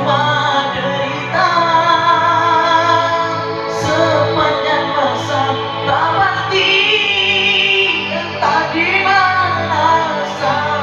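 Ballad backing music with a woman singing, holding long notes that bend between pitches.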